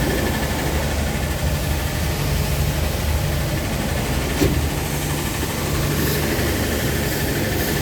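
Steady low mechanical hum, with one sharp click about four and a half seconds in.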